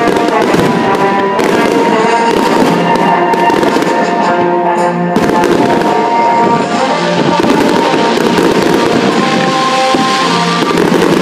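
Aerial fireworks display: shells bursting with many bangs and crackles in quick succession, with music playing underneath.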